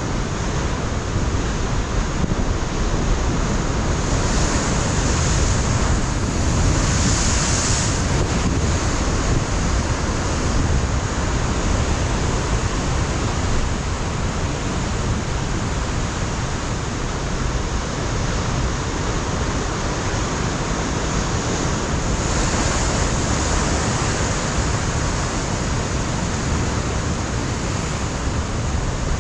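Ocean surf breaking on a rocky coastline, a continuous wash of waves with two louder surges of hissing spray, a few seconds in and again about two-thirds through. Wind buffets the microphone with a low rumble.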